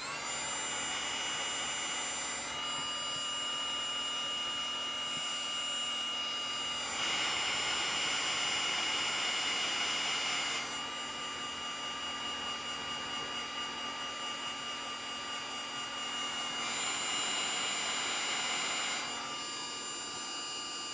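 Cordless battery-powered heat gun running steadily, a fan whine with a steady hiss, as it shrinks heat-shrink crimp connectors on wiring. It gets louder twice for a few seconds.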